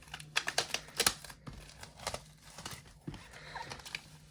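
Plastic shrink wrap on a vinyl record sleeve being picked at and torn by hand: a quick run of sharp crinkles and crackles, densest about a second in, then a few scattered ones.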